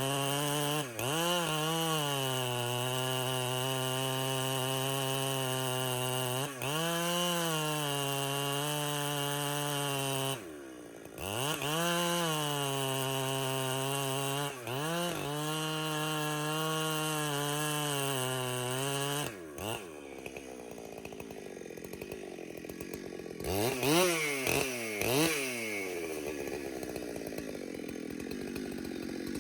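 Two-stroke chainsaw running at high throttle in a cut, the pitch sagging and recovering briefly several times as it is eased off and opened up again. About two-thirds of the way through it drops off the cut to a lower running sound, with a few quick revs near the end.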